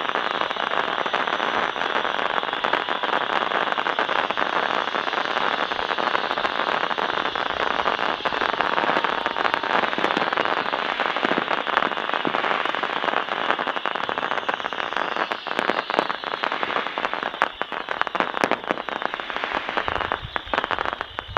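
Fireworks crackling in a dense, continuous barrage of rapid pops, thinning into separate sharp cracks over the last several seconds, with a low boom near the end.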